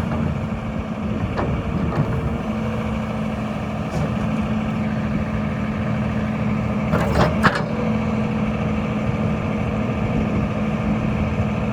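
Diesel engine of a 2005 Volvo EC240BLC excavator running steadily, with a couple of sharp knocks about seven seconds in.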